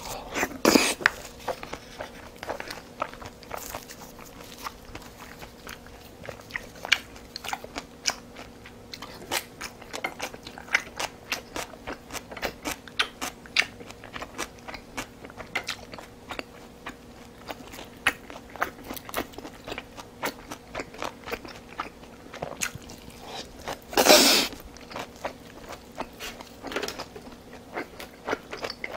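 A person chewing and biting food close to a clip-on microphone: a dense, uneven run of short mouth clicks and crunches, with one louder half-second noise late on.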